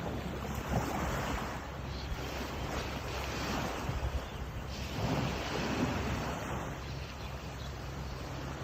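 Sea waves washing onto the beach, rising and falling in surges every couple of seconds, with wind buffeting the microphone.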